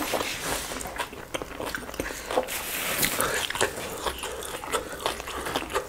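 Chewing and biting sounds of people eating roast chicken by hand: a steady run of small sharp mouth clicks.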